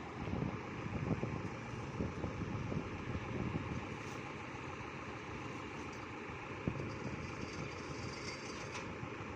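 Truck engine running steadily, with uneven low rumbling over the first few seconds and a single sharp knock about two-thirds of the way through.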